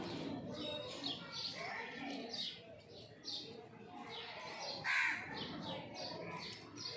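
Birds chirping and calling, several short calls a second, with a louder call about five seconds in.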